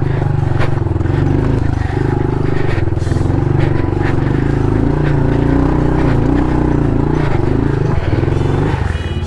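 Honda CRF110 pit bike's small single-cylinder four-stroke engine running steadily under load at low, wavering revs on a slow uphill climb, with a few short knocks along the way.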